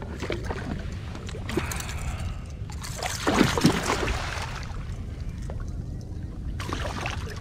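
Water sloshing and splashing around a kayak in irregular swishes, the loudest about three seconds in, over a steady low wind rumble on the microphone.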